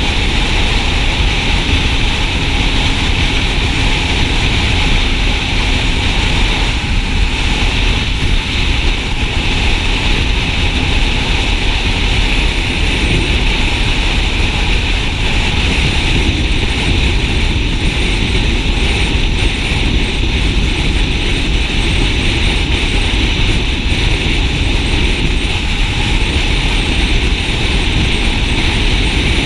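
Steady wind noise on the microphone of a motorcycle being ridden at cruising speed, with the engine running underneath.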